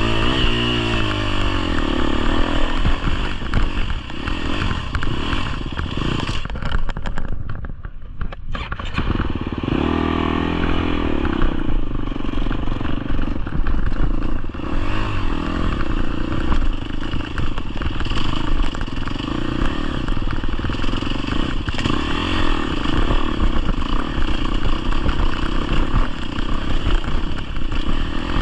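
Four-stroke 250cc enduro dirt bike engine running under way, its pitch rising and falling as the throttle opens and closes. The engine drops away sharply for a couple of seconds about seven seconds in, then picks up again.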